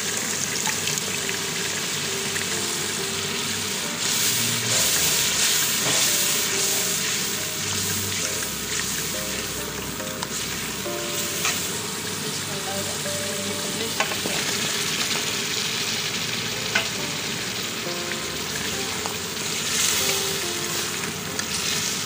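Onion-and-spice masala sizzling and crackling as it fries in hot oil in a metal pan, stirred with a steel ladle. It is louder for a few seconds from about four seconds in, and a couple of sharp clicks of metal on the pan come later.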